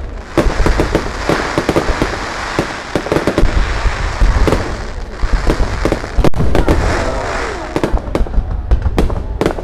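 Fireworks display: a continuous barrage of bangs and crackles from aerial shells going off in quick, irregular succession.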